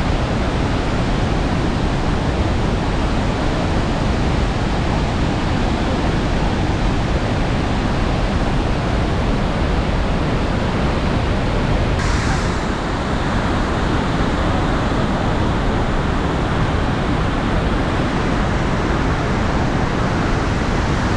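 Loud, steady rush of the Iguaçu Falls' water, an even noise without a break. About halfway through, the hiss briefly brightens, then turns a little duller.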